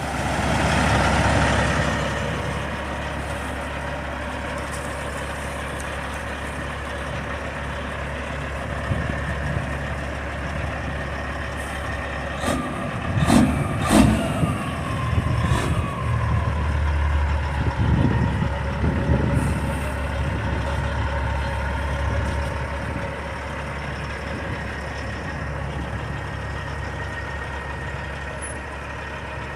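A motor vehicle's engine running steadily, with a few sharp knocks about halfway through.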